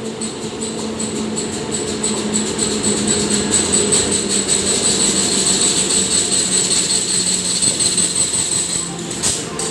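WAP-7 electric locomotive hauling a passenger train rolling into the platform, its wheels clacking rapidly over the rail joints with a steady high-pitched squeal. The squeal stops a little before the end, and a few loud clanks follow.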